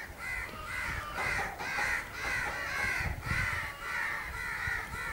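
Birds calling in a steady run of short, repeated calls, about three a second, with no break.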